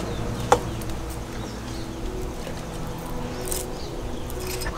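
Faint bird chirps over a low steady background hum, with a single sharp knock about half a second in.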